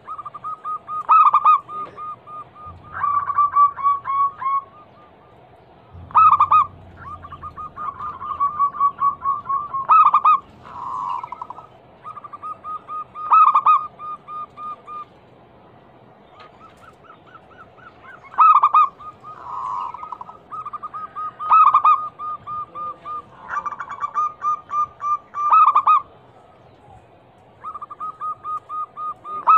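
Zebra doves (perkutut) cooing: rapid trains of short staccato notes broken by louder accented notes, repeating every couple of seconds. At least two birds call at slightly different pitches, and their songs overlap at times.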